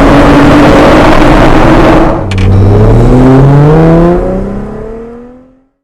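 Jeep Wrangler JL's 3.6-litre V6 through an aftermarket exhaust, running hard under acceleration; about two seconds in the note dips briefly, then climbs steadily in pitch as the engine revs up again, and fades out near the end.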